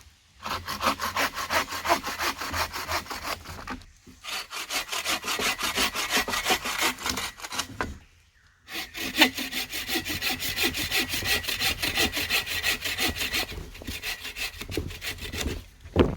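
Hand saw cutting through dead wood with quick, even back-and-forth strokes, in three bouts with short pauses about four and eight seconds in.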